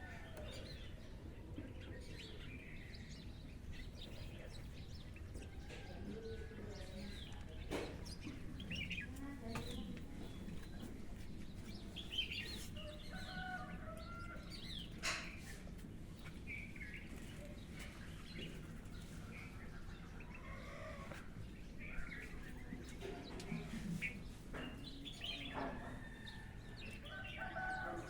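Birds calling and chirping, with short scattered calls high and low and a few sharp knocks among them.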